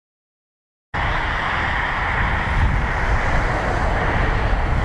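Silence, then about a second in a steady rumble cuts in: an airliner's jet engines on approach to the runway, mixed with wind on the microphone.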